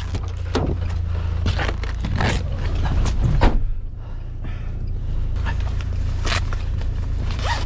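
A vehicle engine idling steadily, with irregular scrapes and crunches over it.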